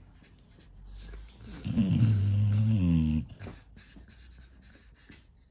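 A dog giving one low, drawn-out vocal call of about a second and a half. Its pitch drops at the start and lifts at the end. A few faint clicks follow.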